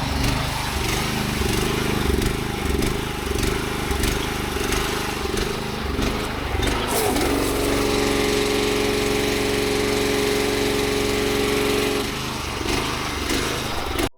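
Petrol pressure washer engine running steadily. About halfway through, a steady hum joins it for roughly five seconds, then drops away.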